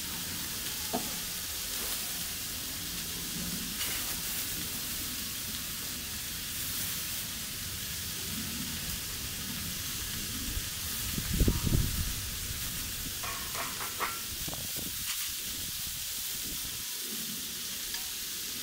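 Food sizzling steadily in a hot pan, with a brief low rumble a little past the middle and a few light knocks after it.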